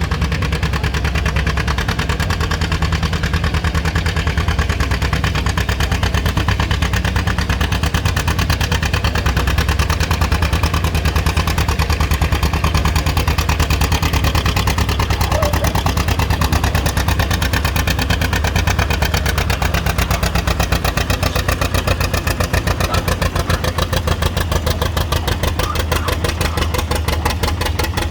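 1957 John Deere 820's two-cylinder diesel engine pulling under heavy load, a steady rapid putting of firing beats. Near the end the beats come slower and more separate as the engine lugs down.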